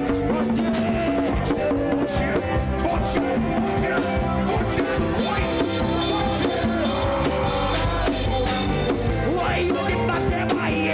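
Live church band music with a drum kit keeping a steady beat and instruments playing, with some singing.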